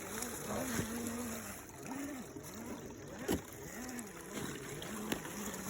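Electric motor whine of a radio-controlled crawler truck, rising and falling in pitch again and again as the throttle is worked, with a few sharp knocks, the loudest about three seconds in.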